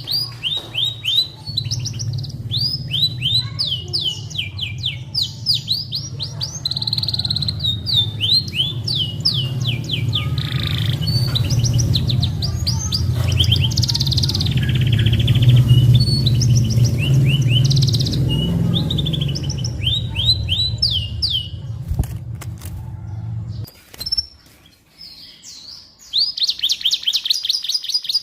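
Domestic canary singing fast rolling trills of repeated high sweeping notes, with short phrases and brief pauses, over a steady low rumble. The rumble stops near the end, after a short lull, and a fast trill starts again just before the close.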